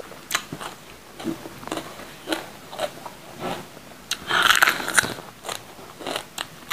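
A person chewing raw bell pepper: short crisp crunches about two a second, then a longer, louder crunch about four seconds in as a fresh bite is taken.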